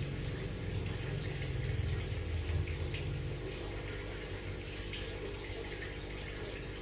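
Aquarium water trickling and splashing, with scattered small drips over a steady low hum. A deeper rumble fades out about two and a half seconds in.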